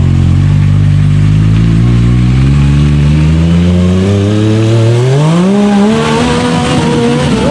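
Side-by-side UTV engine revving under throttle, its pitch climbing slowly at first, then sharply about five seconds in, and holding high near the end.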